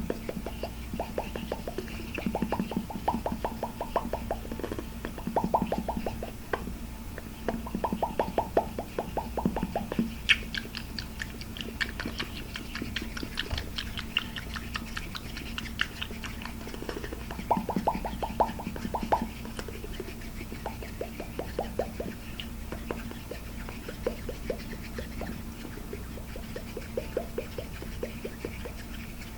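Fast tapping on hard objects: bursts of rapid clicks, mostly dull, with a stretch of sharper, brighter tapping around the middle.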